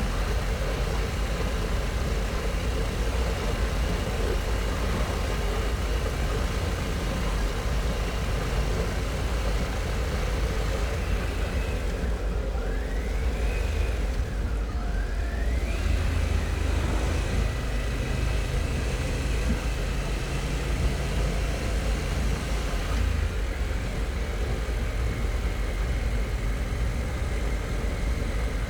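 Harley-Davidson Pan America's V-twin engine running at road speed under heavy wind rush. About halfway through, the wind noise eases for a few seconds and two short rising whines sound.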